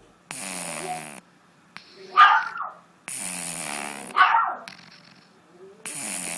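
A dog breathing noisily with snoring sounds: a rasping, buzzing breath lasting about a second, then a short, louder snort. The cycle comes three times, about every three seconds.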